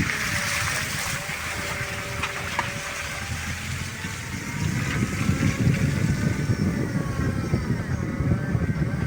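A motor running steadily, its hum drifting slowly in pitch, over a rough low rumble of wind on the microphone.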